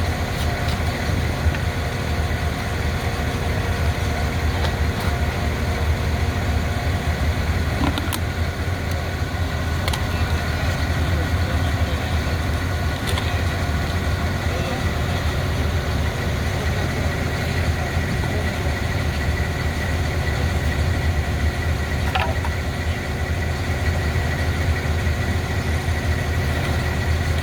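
An engine running steadily at idle, with a few faint ticks.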